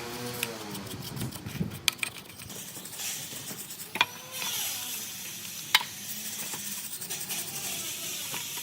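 A few sharp metallic clinks of tools or parts, the louder ones leaving a short ring, over a steady hiss.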